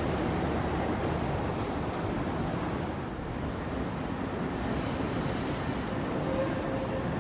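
Steady rumbling noise of a CTA 'L' train running on the elevated Loop tracks, easing slightly about three seconds in.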